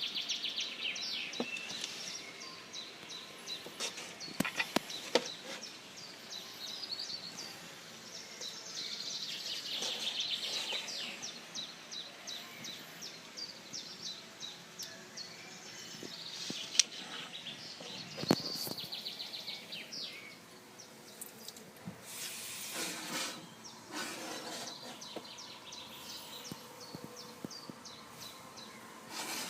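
Outdoor nature ambience: birds chirping in quick repeated trills over a steady background hiss, with a few sharp clicks.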